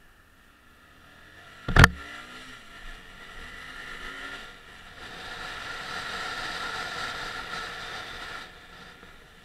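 Hyosung GT125 motorcycle's 125 cc V-twin engine pulling away and accelerating under the rider. The engine sound builds, dips briefly about halfway, runs louder for a few seconds and then falls away near the end. A single sharp knock comes about two seconds in.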